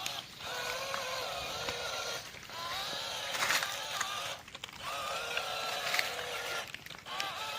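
Small electric motor and gearbox of a homemade RC toy tractor whining, the pitch wavering as it runs, cutting out briefly about four times as the drive stops and restarts, with a few sharp clicks.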